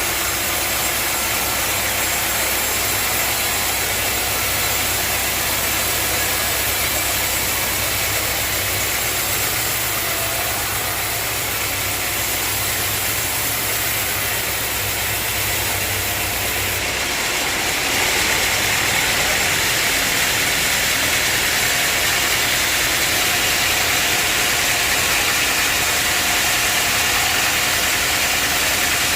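Sawmill machinery running steadily, a continuous mechanical noise with a low hum. About seventeen seconds in the low hum drops away and the higher hiss gets a little louder.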